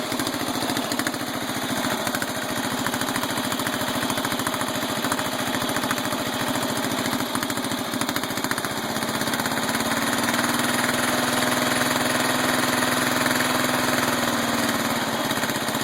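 Riding lawn mower's small gas engine running steadily after its carburetor throttle butterfly was refitted with new screws, no longer stuck in a high rev. About nine seconds in the engine speed rises, holds, then settles back down near the end.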